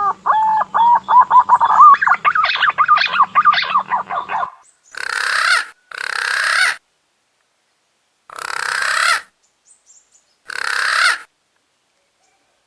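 Punai daun green pigeon calls used as a lure: a run of quick fluty whistled notes that climb in pitch and loudness for about four seconds. Then come four breathy, hoarse bursts of under a second each, spaced a second or two apart.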